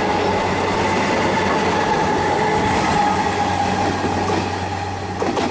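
Comeng electric suburban train running through the station at speed without stopping: wheels rumbling and clattering on the rails under a steady whine. The sound fades near the end as the train moves away.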